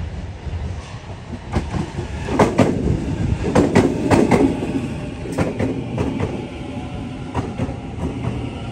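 Sydney Trains Waratah (A set) double-deck electric train running in alongside the platform close by, its wheels knocking over rail joints and points in a run of sharp clacks over a low rumble. The knocks come thickest and loudest from about two to four and a half seconds in, then thin out as the train slows to a stop.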